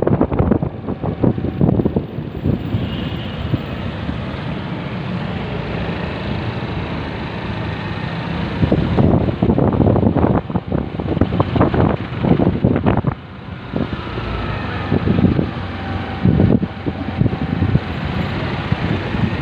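Riding a motorcycle in traffic: steady engine and road noise, with irregular gusts of wind buffeting the microphone.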